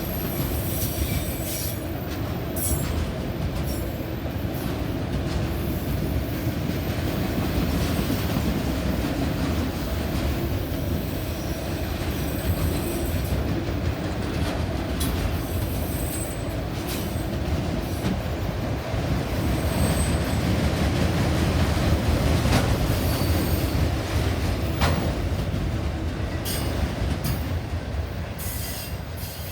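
Train rolling past: a steady rumble of wheels on rail with clicks and short high-pitched squeals from the wheels now and then. The sound eases off near the end.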